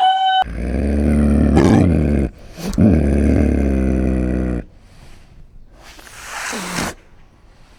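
A large animal bellowing twice: two long, low, loud calls of about two seconds each. A fainter, breathy call with a falling pitch follows near the end.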